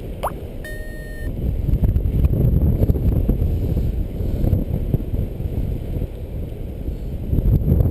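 Strong wind buffeting the microphone in flight under a paraglider, a rough, steady rumble. A short rising squeak near the start and a brief high electronic beep about a second in.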